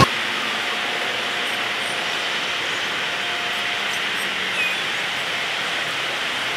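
Steady, even hiss of ambient noise with a distant electric suburban train approaching slowly, and a few faint high chirps a second or two in.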